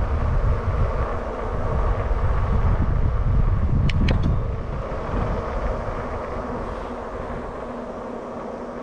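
Wind buffeting the microphone while riding an e-bike, with a faint steady hum from the bike underneath. The rush eases after about four and a half seconds, and two short high ticks come near the middle.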